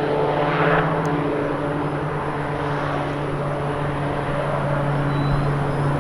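Piaggio P.180 Avanti's twin pusher turboprop engines running, a steady drone with a held low tone over engine and propeller noise.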